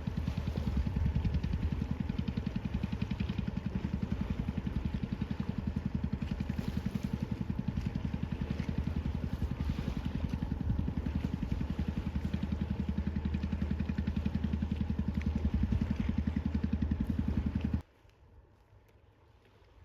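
A boat's engine running steadily with an even low pulse, then stopping abruptly near the end.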